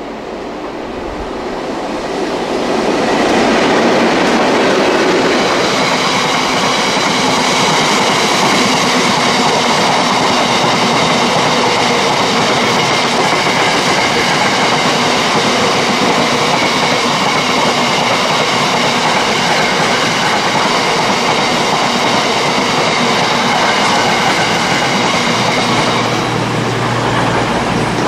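Freight train passing close by, its wagons rolling steadily along the track. It grows louder over the first three seconds, then holds a loud, steady rumble and rattle with a few steady high-pitched tones ringing above it.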